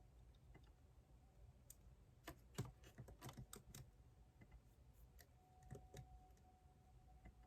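Faint typing on a computer keyboard: a quick run of keystrokes about two seconds in, then a few scattered key presses.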